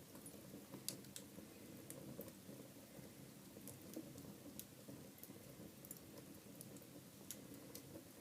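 Wood fire burning quietly in a fireplace: scattered sharp crackles and pops, about half a dozen, over a faint low steady sound of the flames.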